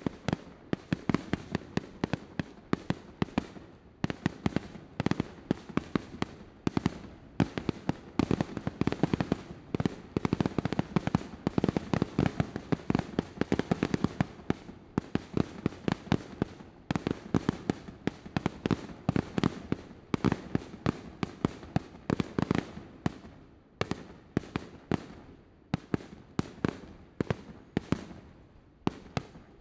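Fireworks display: a dense, rapid barrage of bangs and crackling bursts, several a second, thinning to more spaced-out bangs near the end.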